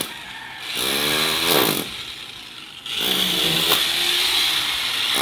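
A small motor revving up and down in short bursts of about a second with quieter gaps between, over a steady high whine.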